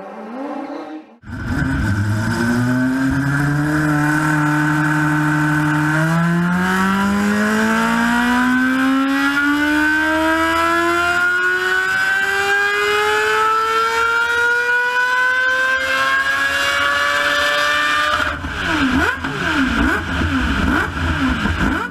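Mazda 767B race car's four-rotor rotary engine running: it holds a steady pitch, then from about six seconds in rises smoothly in pitch through one long pull as it accelerates. Near the end the pitch swoops quickly up and down a few times.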